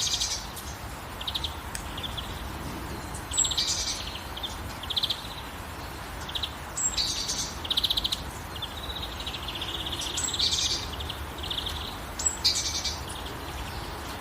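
Songbird singing short phrases about every three to four seconds, each with a quick trill, over the steady hiss of light rain.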